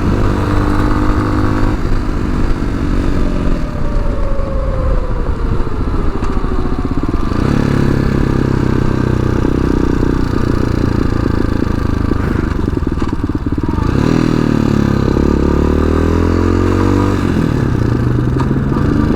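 Tao Tao TBR7 dual-sport motorcycle's single-cylinder engine running under way, heard from the rider's helmet. The engine pitch falls off for a few seconds, picks up again about seven seconds in, then dips and climbs once more near the end as the bike changes speed.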